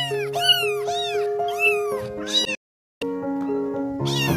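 A kitten meowing, high-pitched and over and over, about five quick calls in a row, each rising then falling. The sound cuts out briefly past the middle, and the meowing starts again near the end. Music with held notes plays underneath.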